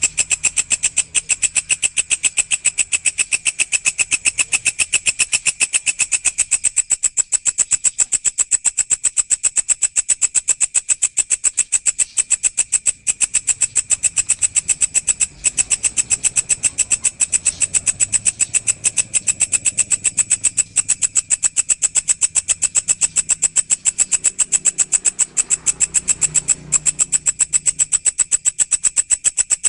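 Grasshopper (walang) stridulating: a continuous, fast and even pulsing chirr, high-pitched with a shrill upper band, broken by a few momentary gaps.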